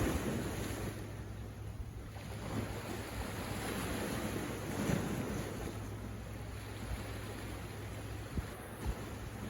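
Sea waves breaking and washing up a beach, swelling near the start and again about halfway through, with a low wind rumble on the microphone.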